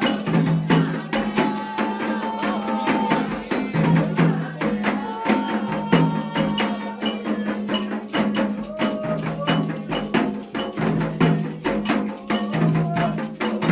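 Afro-Brazilian ritual music: drums and sharp, wood-block-like strikes keep a fast, steady beat while voices sing a chant.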